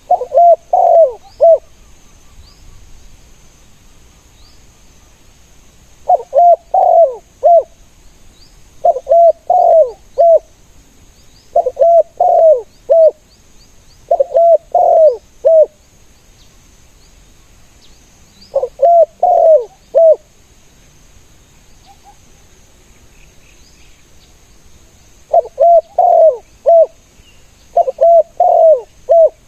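Spotted dove cooing: about eight short phrases of several rising-and-falling coos, repeated every few seconds, with a longer pause in the middle. Faint high chirps of small birds are heard behind it.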